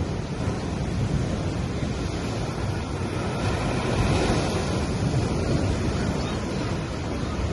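Gentle sea waves washing onto a sandy beach, a steady surf wash that swells slightly about a second in and again around four seconds.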